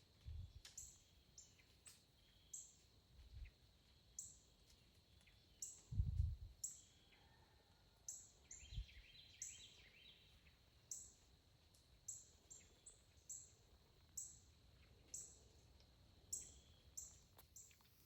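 Small birds chirping in woodland: short high notes repeat about once a second, with softer chirps lower down. A few low thumps break in, the loudest about six seconds in.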